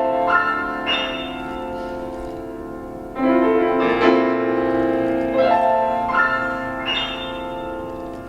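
Solo piano playing sustained chords with rising broken-chord runs; a full chord is struck about three seconds in and left to ring and fade.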